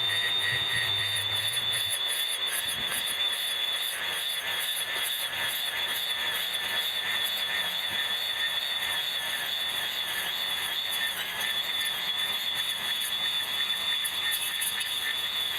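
Electric grass cutter running steadily with a high-pitched whine while cutting grass.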